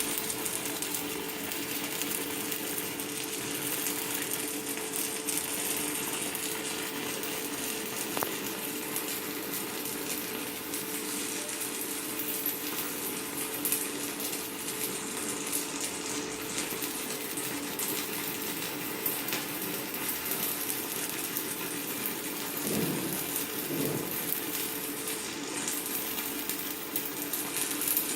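Stick-welding arc from a Chinshui 160ARC inverter welder burning a 4.0 mm electrode: a continuous crackling sizzle like frying, with a steady hum underneath.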